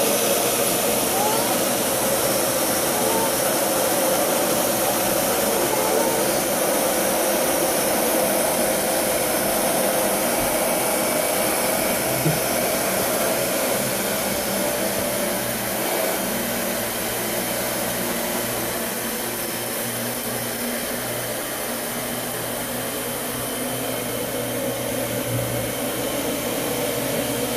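Vacuum cleaner motor running steadily, a continuous whirring hiss with a held whine.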